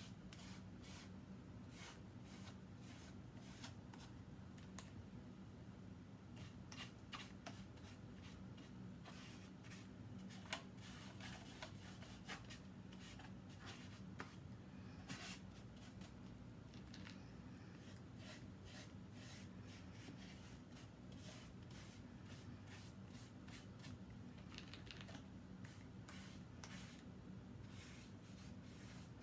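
Faint, irregular scratching and light tapping of a paintbrush stroking paint onto a plastic milk jug, over a low steady room hum.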